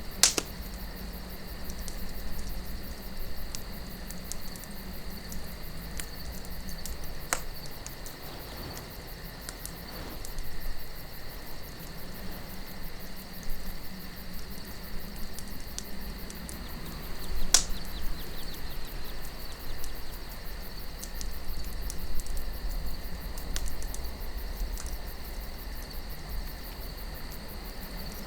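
Campfire crackling, with a few sharp pops of burning wood, over a steady low rush of wind and a continuous high chirring of crickets.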